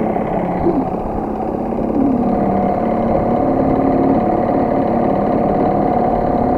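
Small HDX T 2.6 CBMS outboard motor running steadily at idle during its first run-in, picking up slightly about two seconds in.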